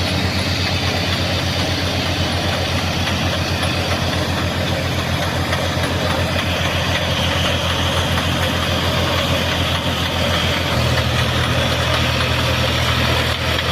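Tractor engine running steadily with a rapid, even pulse; its note steps up slightly about eleven seconds in as it is given a little more throttle.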